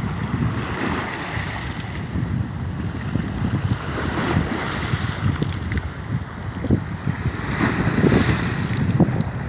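Lake Ontario waves washing and breaking along the shore, swelling in and out a few times, with gusty wind rumbling on the microphone.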